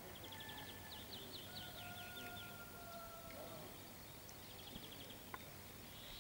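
Faint outdoor ambience with small birds chirping in rapid high trills, one run of about two seconds and a shorter one later, and a faint steady whistle-like tone held for about two seconds that ends in a short downward slide.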